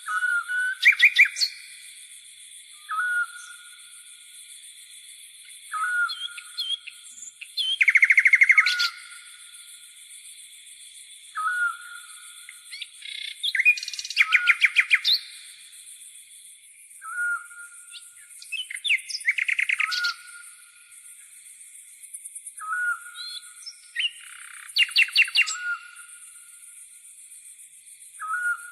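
Songbirds calling over a steady, high insect chirring. A short whistled note comes every few seconds, and a quick rattling trill about every six seconds.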